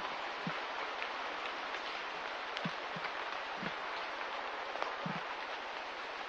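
Steady hiss of light rain, with scattered drops pattering and a few soft, heavier drips landing now and then.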